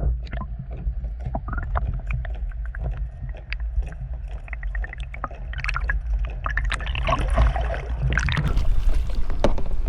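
Fishing reel clicking in a fast, even run as a striped bass is fought from a kayak, over a steady low rumble of wind on the microphone.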